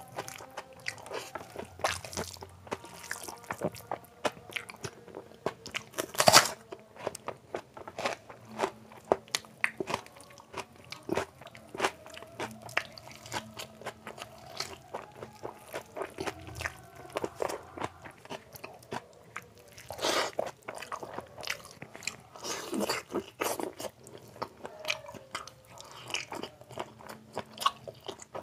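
Close-miked chewing and biting of a handful of soaked rice with fried sides, wet mouth sounds broken by crunches. A sharp, loud crunch comes about six seconds in, with further louder bites later on.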